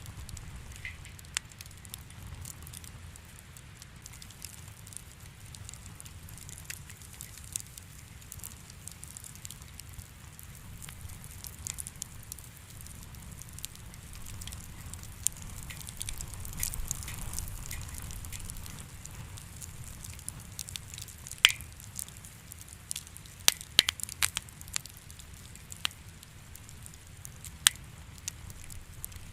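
Wood fire crackling in a fireplace: scattered sharp pops and snaps over a low steady rumble, with a few louder pops in the last third.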